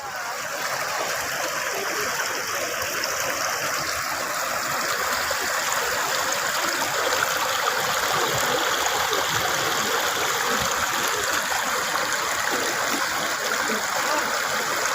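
Park fountain water splashing and rushing steadily into a pond, starting abruptly at the beginning.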